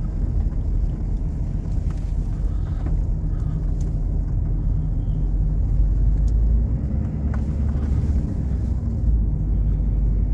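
Steady low road and engine rumble of a car, heard from inside the moving vehicle's cabin.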